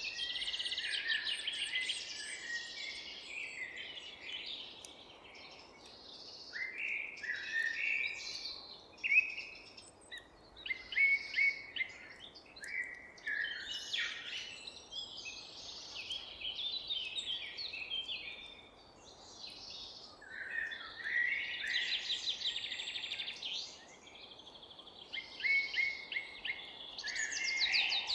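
Several songbirds singing and chirping at once, a dense chorus of quick trills and short chirps, over a steady low background hum.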